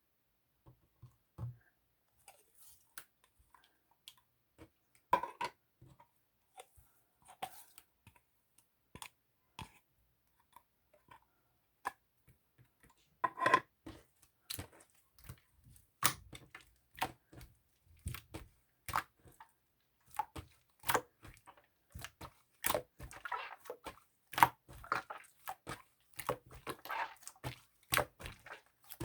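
Irregular sharp clicks and taps from small objects being handled, with a few short scratchy, rustling stretches. They come thicker and faster from about halfway through.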